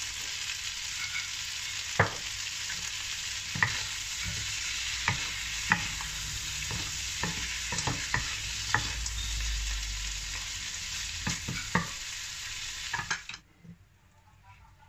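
Shrimp sizzling in oil in a wok while being stirred and tossed with two wooden spatulas, with sharp clacks of the spatulas against the pan every second or so. The sizzle cuts off suddenly near the end.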